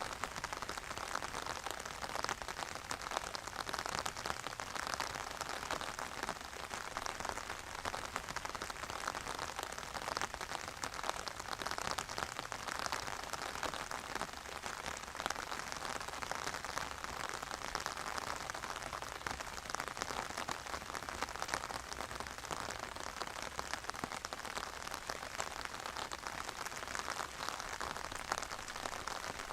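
Steady, even rain falling, with a dense scatter of small individual drop hits.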